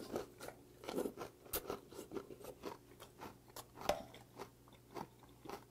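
Close-up crunchy chewing of a mouthful of doenjang mulhoe: raw Jeju damselfish (jaridom) sliced with its tough bones, in a soup with raw vegetables. Irregular crisp crunches come several times a second and thin out toward the end.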